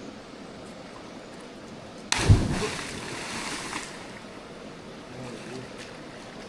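A person plunging into a river: one sudden, loud splash about two seconds in that dies away over a second or two, over the steady rush of the river.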